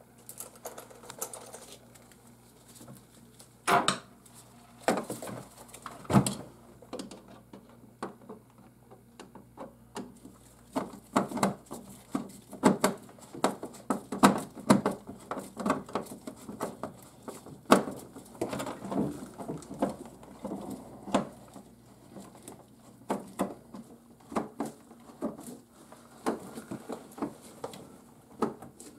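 Irregular clicks, taps and knocks of refrigerator parts being handled and fitted back into place, a few separate knocks at first, then a busy run of clicking from about ten seconds in. A faint steady hum lies underneath.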